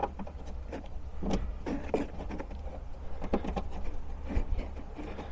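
Irregular light metallic clicks and knocks as a nut and bolt are worked on by hand at a car's rear shock absorber mount, over a steady low hum.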